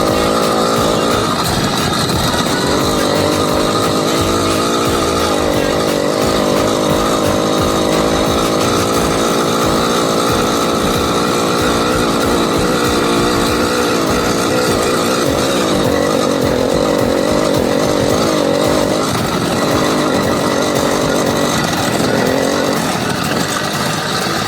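80cc bicycle engine running steadily, its note drifting a little up and down with the throttle.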